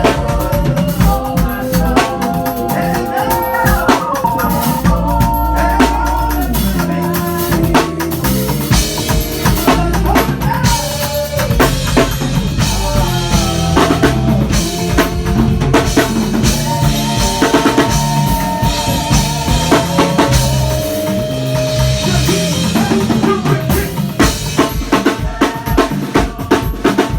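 A band playing during a sound check: a drum kit with bass drum, snare and rimshots over a moving bass line and held melodic notes.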